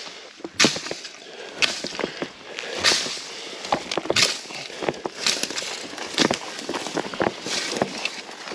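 Footsteps crunching on dry ground and brush, about one step a second, with small crackles of twigs between the steps.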